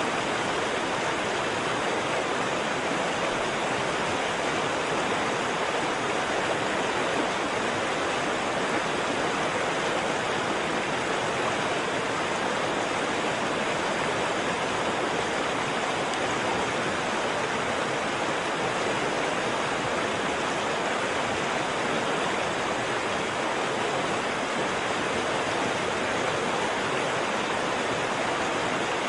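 Waterfall: a steady, even rush of falling water, with no change or break.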